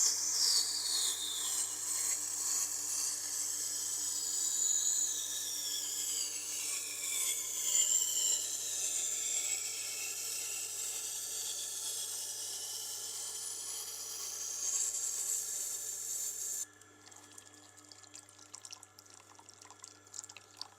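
Japanese kitchen knife being ground on a Tormek wet grinder's water-cooled stone: the edge hisses and scrapes against the turning wheel, with whistling tones that fall in pitch as the blade is drawn along, over the machine's steady low hum. The grinding stops sharply about three-quarters through, leaving the hum and faint clicks.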